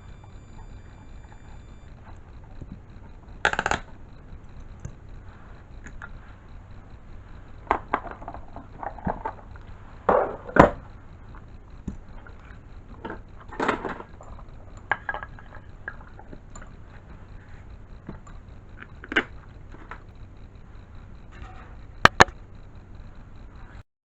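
Irregular knocks and clinks of hard objects being handled, over a low steady hum, with a sharper double knock about 22 seconds in.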